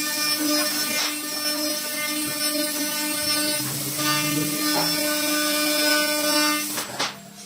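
CNC wood lathe running and cutting wood: a steady machine whine over cutting noise, which stops abruptly near the end.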